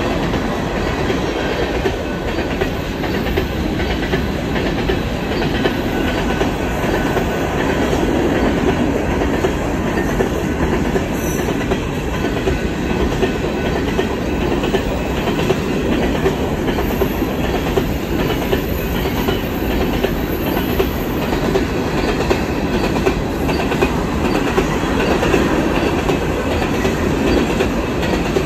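BNSF freight train's cars rolling past close by: a steady, loud rumble of steel wheels on rail, with clicking as the wheels cross rail joints.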